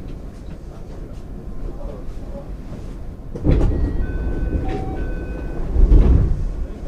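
JR 205 series electric train heard from on board while running, its wheels and running gear rumbling over the track. The rumble grows suddenly louder about three and a half seconds in and peaks again near the end, with a few brief high, steady ringing tones in between.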